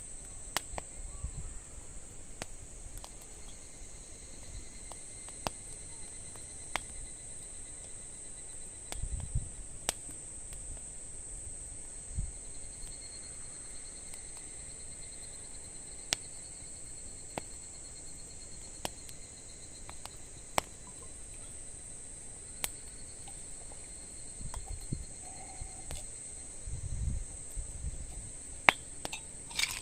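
Wood campfire crackling, with sharp pops every second or two and one loud pop near the end, over the steady high chirring of crickets. A few brief low rumbles come and go.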